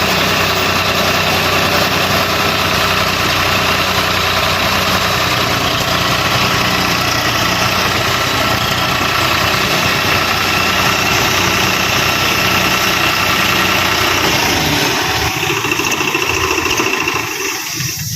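Swaraj tractor's diesel engine running steadily at idle. About fifteen seconds in, the low end of the sound thins out and becomes more uneven.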